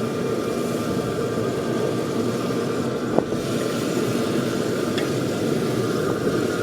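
A steady mechanical hum, like a motor or fan running, with one short click about three seconds in.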